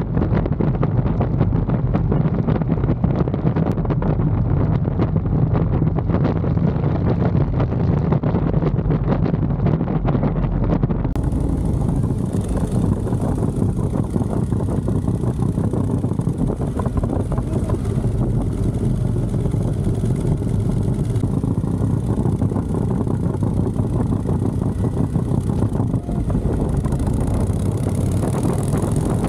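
Harley-Davidson Street Glide Special's V-twin engine running steadily with a low rumble while being ridden. The sound shifts in character about eleven seconds in.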